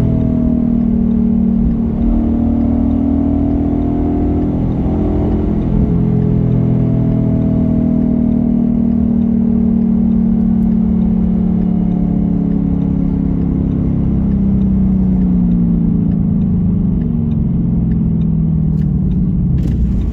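Car engine running with a steady drone whose pitch drifts slowly up and down, as engine speed changes while driving.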